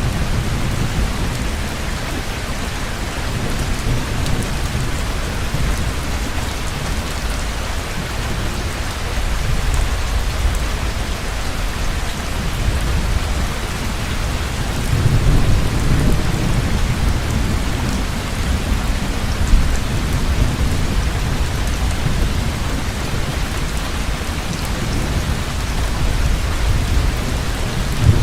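Heavy rain falling steadily, with low rolling thunder that swells about halfway through and again near the end.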